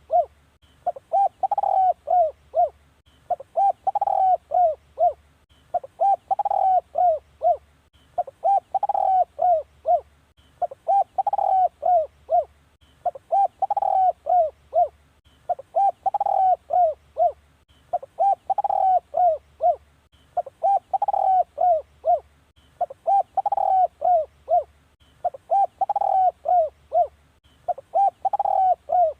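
Spotted dove cooing: a phrase of several short coos, repeated very regularly about every two and a half seconds. It is a decoy call for luring spotted doves.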